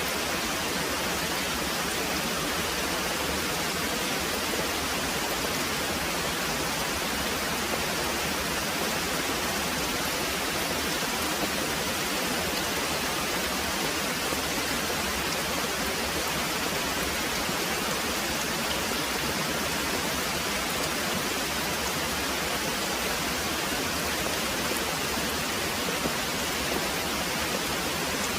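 Very heavy rain pouring steadily, an even, unbroken hiss without distinct drops or thunder.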